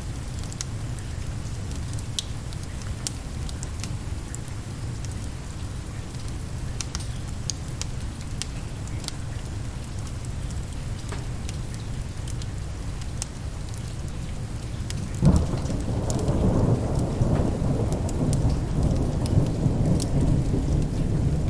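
Steady rain falling, with scattered sharp ticks. About 15 seconds in, a thunderclap breaks in sharply and turns into a long rolling rumble that lasts to the end.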